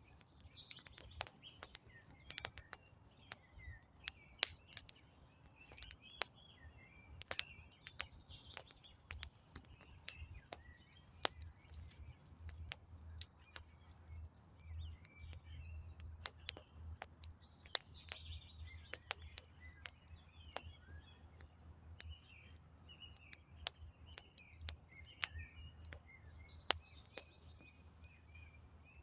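Wood campfire crackling, with many sharp pops scattered irregularly throughout, while small birds chirp and sing in the background. A low steady rumble sits underneath, strongest in the middle.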